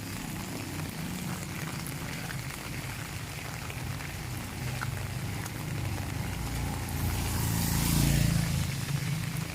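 Steady rain falling, with a motor vehicle passing on the wet road: its engine hum and tyre hiss swell to a peak about eight seconds in, then fade.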